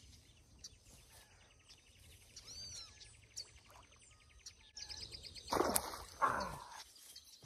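Birds chirping in short, arching calls over a fast, even buzzing rhythm that runs for a few seconds. Two louder noisy bursts come near the end, the second trailing off in a falling tone.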